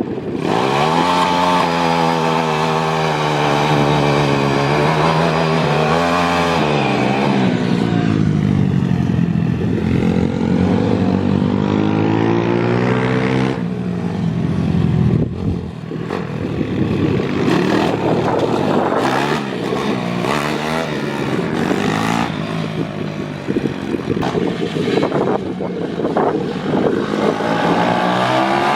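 Pit bike engines at full throttle on track, revving up through the gears. The pitch climbs steadily and then drops sharply at each gear change, and later several engines overlap as more bikes pass.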